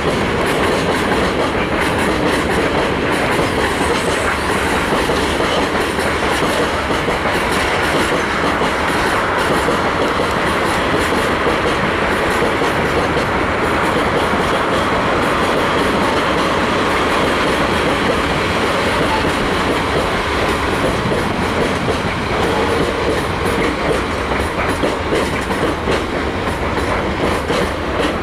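A train rolling past at close range, its wagons' wheels clicking steadily over the rail joints.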